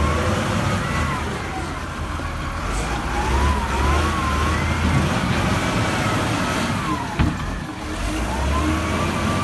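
Heavy diesel engine of a Liugong 836 wheel loader working, revving up and easing off in surges, with a thin wavering whine rising and falling above the engine. A single sharp knock comes about seven seconds in.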